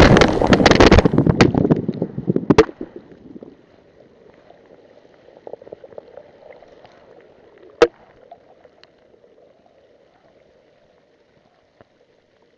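Rough surf with wind buffeting the microphone, crackling and knocking, for about two and a half seconds, then it drops away to a faint hiss with a single sharp click about eight seconds in.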